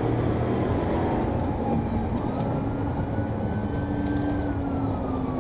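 Steady engine and road rumble from a police patrol car driving at speed, with a siren wailing in the background, rising slowly and then falling.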